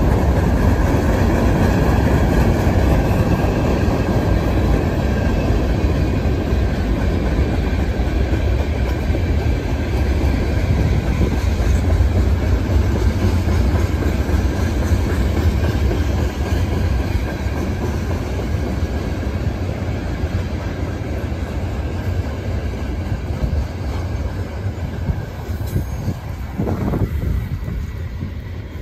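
Freight train of hopper and tank cars rolling past steadily on the rails. The sound grows slowly fainter over the second half.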